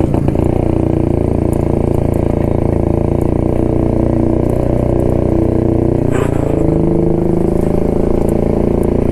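1972 Jawa motorcycle's two-stroke engine running steadily while riding, heard from the bike, with the engine note shifting slightly about two-thirds of the way in.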